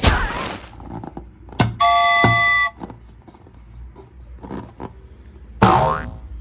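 Edited sound effects: a loud bang at the start, a short horn-like honk of several tones about two seconds in, and another sharp burst near the end.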